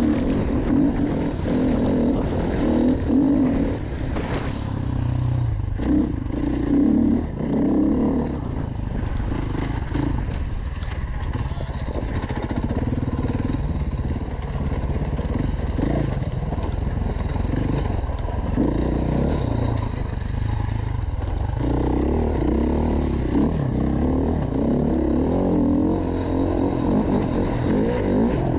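Off-road motorcycle engine on an enduro ride, revving up and easing off again and again as the throttle is worked. It pulls hard in surges early on, runs lighter through the middle, and pulls hard again near the end.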